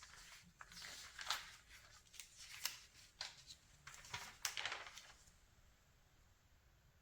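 Glossy magazine pages being turned by hand: a series of faint paper rustles and swishes that stops about five seconds in.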